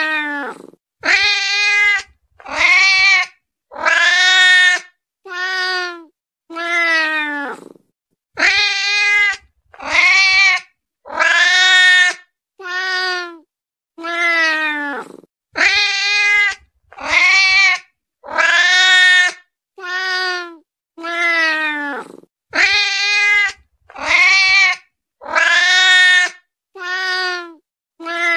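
Domestic cat meowing over and over, one drawn-out meow about every second and a half, several sliding down in pitch at the end: the insistent calls of a hungry cat.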